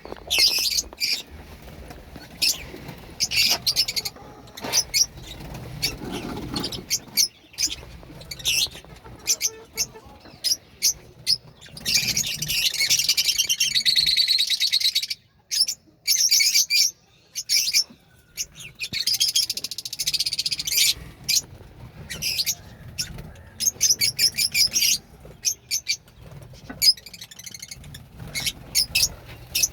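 Budgerigars chirping and chattering: many short, sharp calls throughout, with two longer stretches of dense, continuous warbling chatter.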